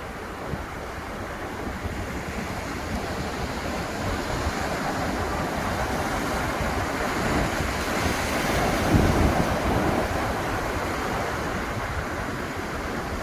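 Ocean surf washing ashore in a steady hiss, with a wave swelling to break about nine seconds in. Wind buffets the microphone.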